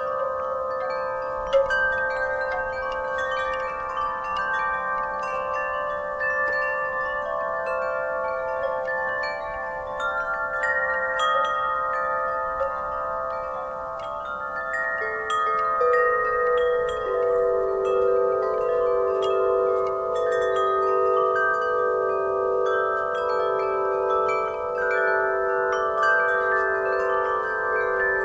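Wind chimes ringing in a breeze: many overlapping, long-sustained metallic tones struck over and over, with a lower chime tone joining about halfway through.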